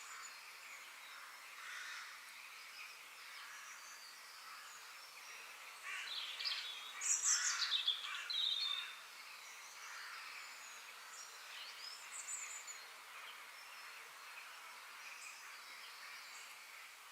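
Wild birds chirping and singing over a steady high hiss, with a louder, busier stretch of song from about six seconds in that lasts some three seconds.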